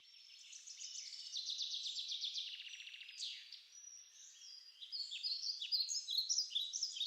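Several songbirds singing at once, with fast trills of repeated notes in the first few seconds and short chirps overlapping later on.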